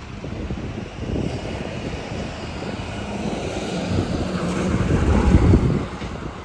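A bus driving past, its engine drone with a steady low hum growing louder to a peak about five seconds in and then fading, with wind noise on the microphone.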